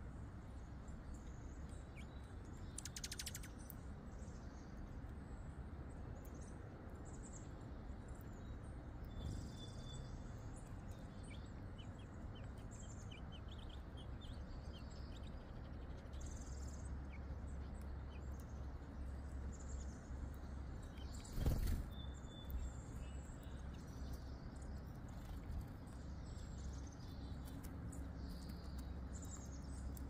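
Faint outdoor ambience with scattered short chirps from small songbirds over a steady low rumble, including a quick run of short ticks around the middle. About two-thirds of the way through comes one brief, louder noise.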